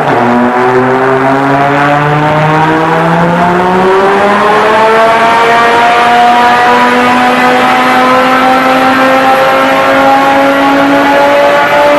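Race car engine under a long, steady acceleration, its pitch climbing slowly throughout, with a brief break right at the start like a gear change.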